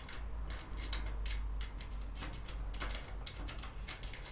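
Irregular small clicks and taps from handling the parts and tools of a storage cart being assembled, over a low steady hum.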